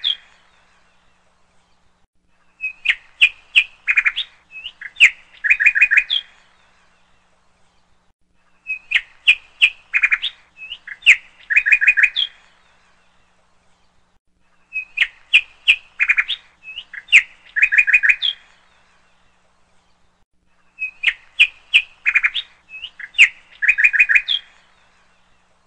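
Birdsong: rapid chirps followed by a quick run of twittering notes, a phrase of about three and a half seconds. The same phrase repeats about every six seconds, with short quiet gaps between.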